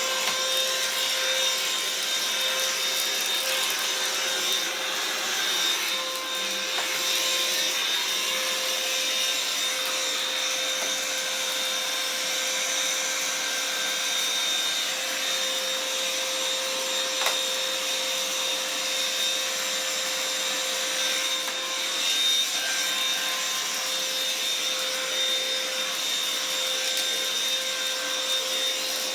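Vacuum cleaner running steadily with a constant motor whine, crunching gritty debris as it is pushed over it. There is one sharp click about seventeen seconds in.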